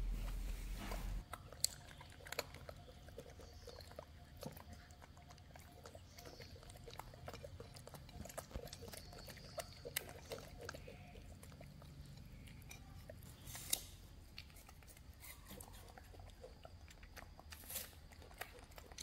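Chewing: scattered small crunching and smacking clicks, with a few sharper snaps. A low rumble on the microphone stops about a second in.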